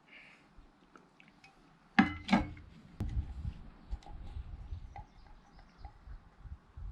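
Two sharp clanks of metal cookware about half a second apart, each with a brief ring, followed by low rumbling handling noise.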